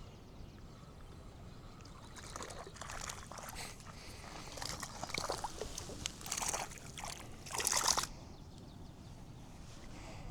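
Water splashing and sloshing in irregular bursts for several seconds, loudest just before it stops abruptly about eight seconds in.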